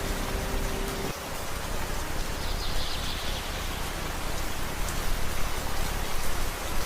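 Steady rain falling in a forest, an even, dense hiss of drops. A faint low steady tone underneath stops about a second in.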